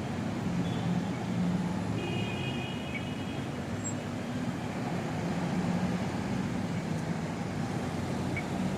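Steady city street traffic: vehicle engines and road noise, with a faint high tone for about a second and a half about two seconds in.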